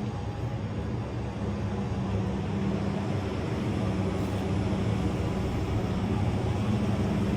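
An engine running steadily: a low drone that grows slightly louder.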